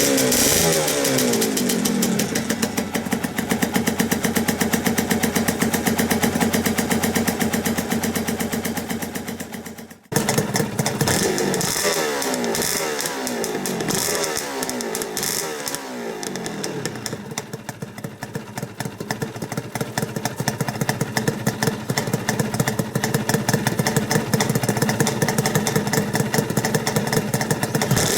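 Honda NSR250R's two-stroke V-twin engine running through its freshly cleaned Jha expansion chambers, idling with a buzzy two-stroke note and blipped repeatedly, the revs falling back after each blip. The sound breaks off briefly about ten seconds in and picks up again at once.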